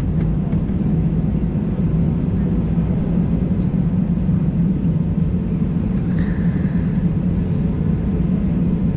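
Steady cabin noise inside an Airbus A320 taxiing, its engines running at low taxi thrust with a constant low hum. A faint, brief higher tone comes about six seconds in.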